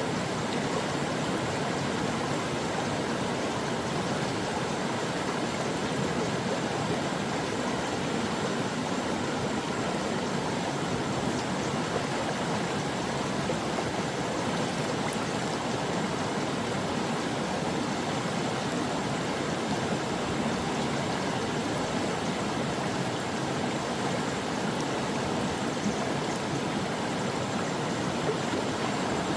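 Stream water flowing, a steady even rush of running water with no breaks or changes.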